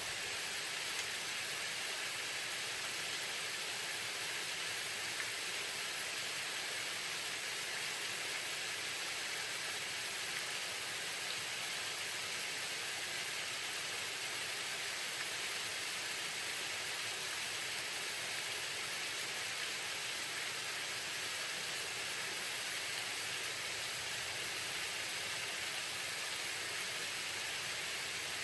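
Waterfall: water falling and splashing in a steady, even rush without breaks.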